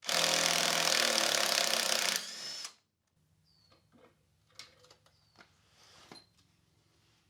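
A handheld power tool running flat out for about two seconds, starting abruptly, then briefly at lower speed before stopping. After it come only a few faint clicks and taps of tools.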